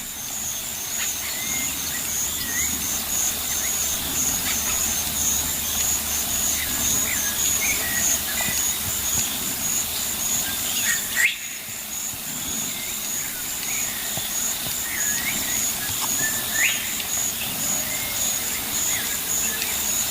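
Countryside ambience: an insect chorus keeps up a steady, high, evenly pulsing trill, while birds give short scattered chirps. The sound breaks off briefly about halfway through.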